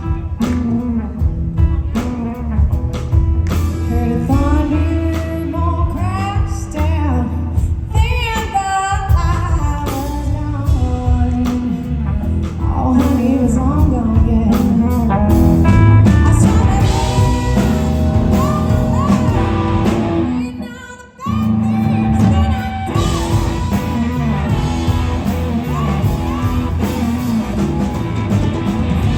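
Live blues-rock band with a woman singing over electric guitar, bass and drums. The band drops out for a moment about two-thirds of the way through, then comes back in.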